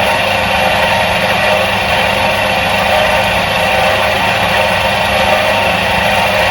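Electric motor of a 1977 Soviet washing machine running at a steady speed: an even hum and whir that does not change.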